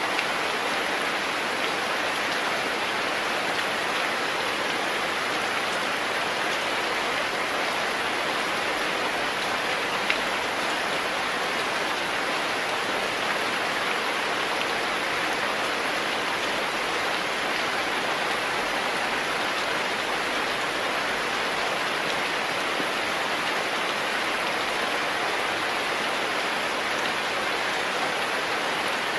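Steady rain falling, an even hiss of many drops with no let-up, and a single sharp tick about ten seconds in.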